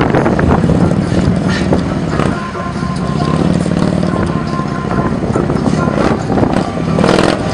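Harley-Davidson motorcycle's V-twin engine running at low speed, the pitch rising and falling slightly with small throttle changes, with a few brief louder surges.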